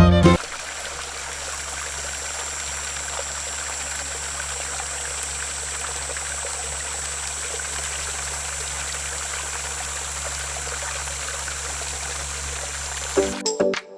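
Water pouring steadily from a small DIY water pump, with a steady low motor hum underneath. Music cuts out just after the start and comes back near the end.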